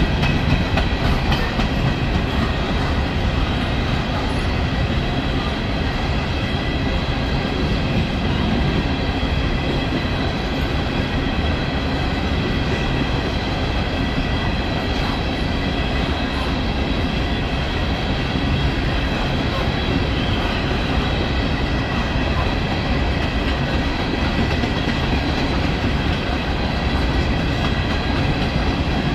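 CSX coal train's open-top coal cars rolling past: a steady rumble of steel wheels on rail, with a steady high whine of several tones above it.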